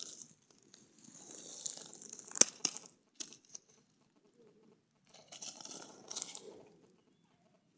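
Crunching and crinkling noises in two spells, with a sharp click about two and a half seconds in.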